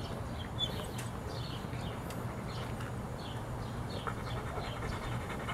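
A small bird chirping over and over, about three short chirps a second, over a steady low background hum.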